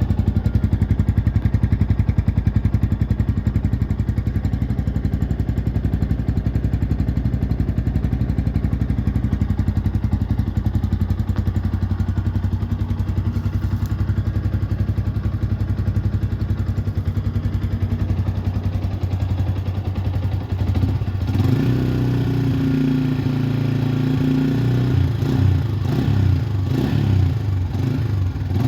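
Yamaha Vixion's single-cylinder four-stroke engine idling steadily through a full exhaust taken from a Honda Tiger Revo, then revved in a series of throttle blips after about twenty seconds.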